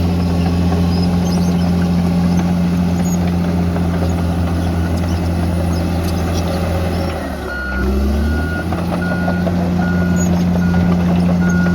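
A bulldozer's diesel engine running steadily. About two-thirds of the way in, its note sags and then picks up again as a reverse alarm starts beeping, about two beeps a second.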